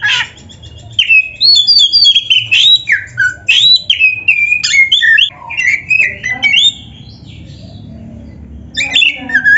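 Oriental magpie-robin (kacer) singing a loud, varied song of clear whistled notes and quick rising and falling phrases. It breaks off for about two seconds in the second half and starts again near the end.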